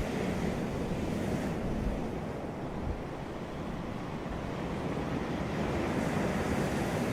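Surf washing onto a beach: a continuous rushing of waves whose hiss eases after about a second and a half and builds again near the end as the next wave comes in.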